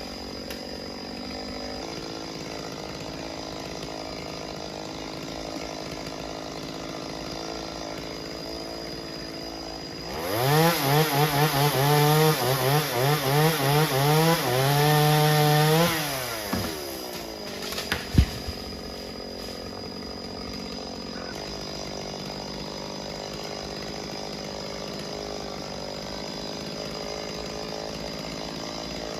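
Chainsaw engine running steadily at a low level, revved hard for about six seconds partway through with its pitch repeatedly dipping and rising, then dropping back. A single sharp knock follows a couple of seconds later.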